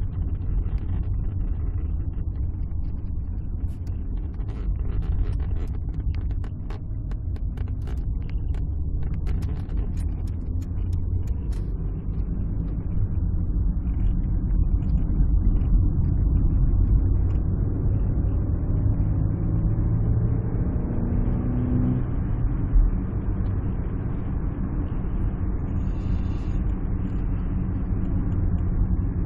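Alfa Romeo 156 driving, heard from inside the cabin: steady low engine and road rumble. A run of sharp clicks comes a few seconds in, and the engine note rises gradually through the middle as the car accelerates, then holds steady.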